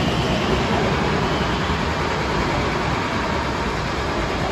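BTS Skytrain electric metro train pulling out of the station, a steady rumble of wheels and motors that eases slightly toward the end.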